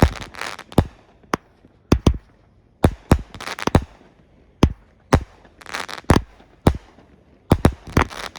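Hillbilly Hot Tub consumer firework cakes by Cutting Edge Fireworks firing: a string of sharp bangs at irregular intervals, about two a second, several trailing into short crackles.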